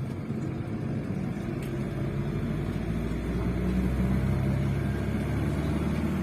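Bus engine and road noise heard from inside the passenger cabin, a steady low drone that grows louder about halfway through.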